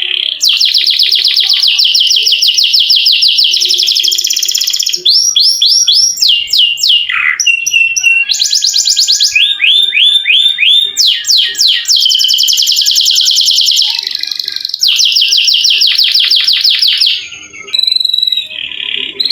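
Domestic canary singing loud, long rolling trills: fast runs of identical repeated notes that switch to a new trill every one to four seconds.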